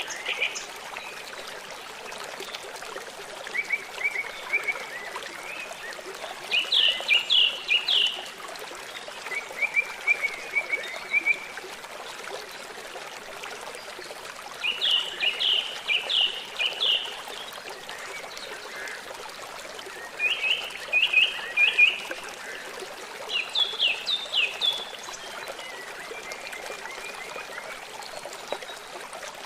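River water running steadily, with a bird singing short bursts of rapid chirps every few seconds.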